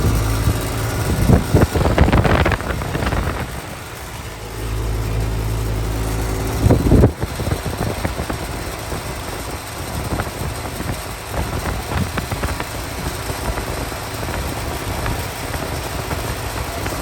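Air-conditioning unit running with a steady mechanical hum, broken by loud, noisy bursts about two seconds in and again about seven seconds in.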